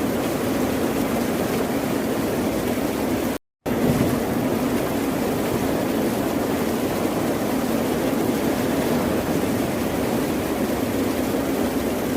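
Ocean surf as a steady, even wash of wave noise. About three and a half seconds in, it drops out completely for a split second, then resumes.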